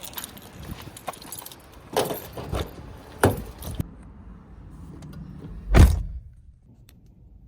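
Keys jangling and clicking with a few knocks, then a door shut with one loud heavy thump near the end.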